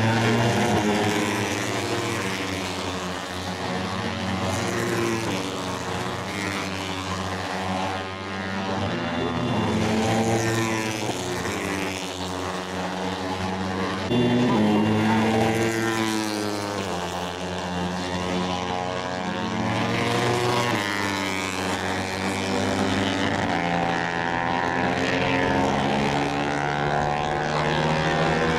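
Several Moto3 race bikes with 250 cc single-cylinder four-stroke engines passing at high revs, overlapping one another. The pitch climbs through each gear and drops sharply at every shift.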